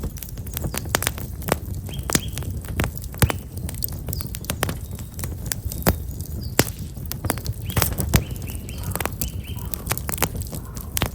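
Black locust firewood burning in an open fire, crackling and popping in irregular sharp snaps. Small birds chirp a few times, briefly about two seconds in and again near the end.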